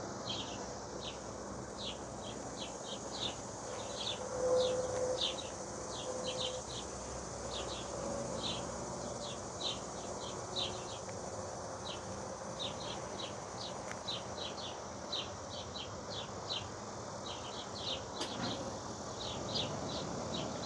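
Honeybees buzzing around an open hive, one flying close past with a louder hum a few seconds in, over a steady run of short high chirps, about two a second, from insects such as crickets.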